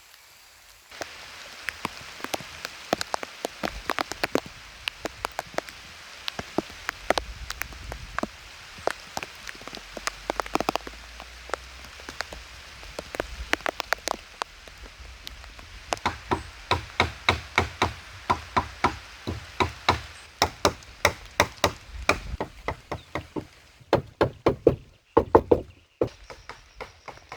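Steady rain with many sharp knocks over it. Partway through, the knocks settle into an even run of about two or three a second, with a few very loud ones near the end.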